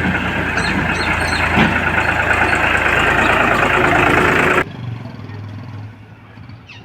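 Heavy diesel engine running loud with a rattling, clattering noise on top; about four and a half seconds in it cuts off suddenly, leaving a much quieter low engine hum.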